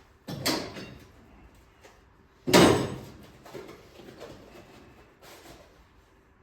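A tool drawer or cabinet being opened and shut while the mechanic searches for a puller: two sharp clattering knocks about two seconds apart, the second louder, each with a short ringing fade, then a few faint knocks.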